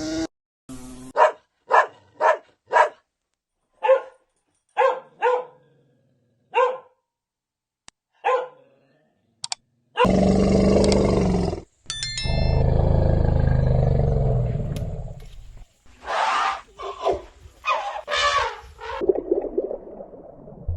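A dog barking in short single barks, a dozen or so spread over several seconds. About ten seconds in, a loud, rough, low sound lasts several seconds. Then come a few more short calls.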